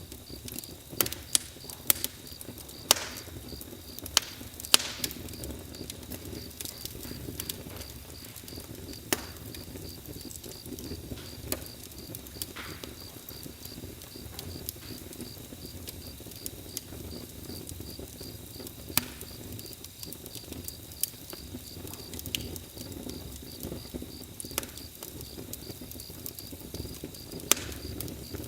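Campfire crackling: irregular sharp pops and snaps over a steady low noise of burning wood. A cricket chirps throughout in a fast, even high pulse.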